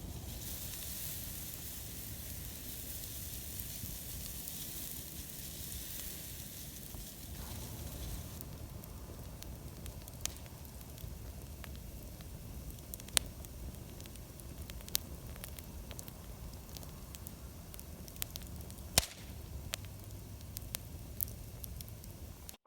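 Burning firewood crackling, with a steady hiss that eases after about eight seconds and a few sharp pops in the second half.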